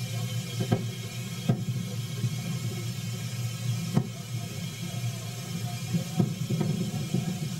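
Steady low rumble and hiss of a passenger railcar in motion, heard from inside, with a few sharp knocks or clicks at uneven intervals.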